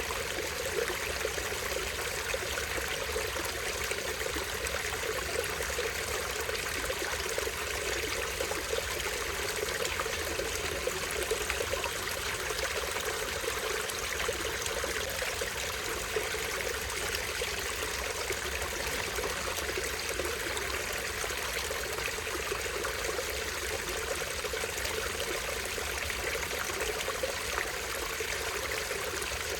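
Small stream falling over a tiny waterfall, the water running with a steady, even splashing rush.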